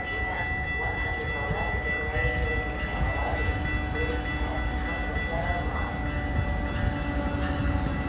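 Approaching train still some way off: a steady low rumble with a thin, steady high-pitched tone over it.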